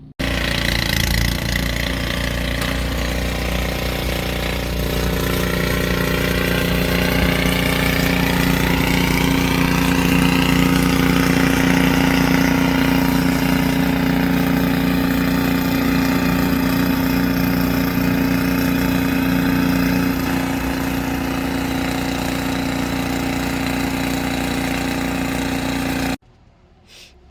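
An engine running steadily at an even speed, starting abruptly and cutting off suddenly near the end.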